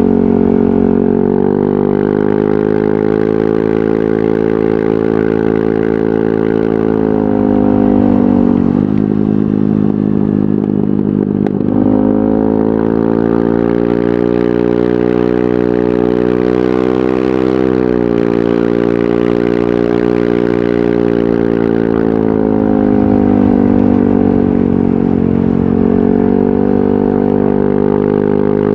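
Yamaha NMAX 155 scooter's single-cylinder four-stroke engine running through a VMAX Onyx aftermarket muffler, holding steady revs. The revs fall away about eight seconds in and climb again a few seconds later, then ease off and pick up twice more.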